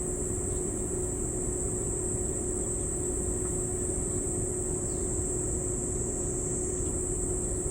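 A steady, high-pitched drone of insects over a low rumble and a steady hum.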